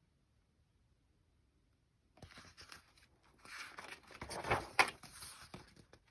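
A book page rustling and crackling as it is handled and turned, with a couple of sharper crackles about four and a half seconds in; the first two seconds are near silent.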